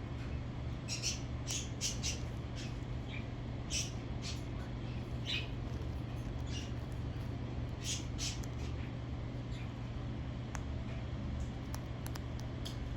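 Jardine's parrot eating Nutri-Berries: scattered short crunches and cracks from its beak, coming in small clusters, over a steady low hum.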